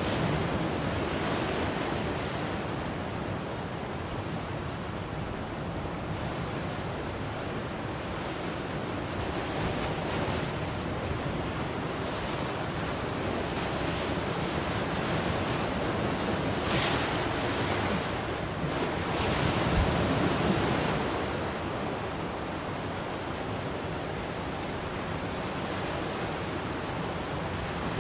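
Ocean waves breaking and washing on the shore in a steady surf rush, swelling louder as a wave breaks a little past halfway through. Some wind buffets the microphone.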